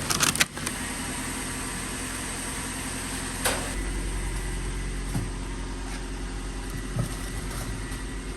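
Car engine idling steadily, with a couple of clicks and knocks in the first half second and a single sharp knock about three and a half seconds in, after which the low hum grows stronger.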